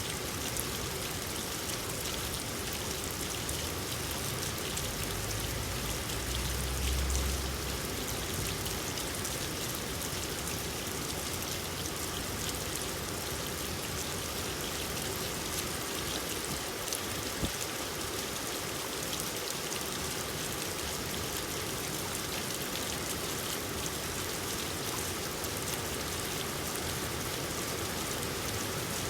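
Steady rain falling, with a dense patter of drops. A brief low rumble comes about six seconds in.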